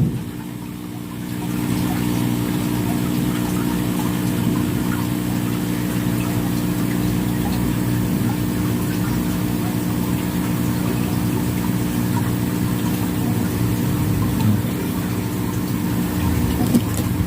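A steady mechanical hum of a running engine or motor, made of several low tones held at a fixed pitch. It drops away briefly at the start and picks back up about a second and a half in.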